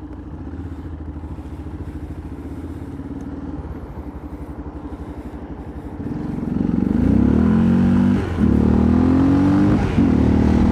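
Yamaha XT660R single-cylinder engine running steadily at low revs, then pulling away about six seconds in: the engine note climbs, dips briefly twice as the rider shifts up, and climbs again.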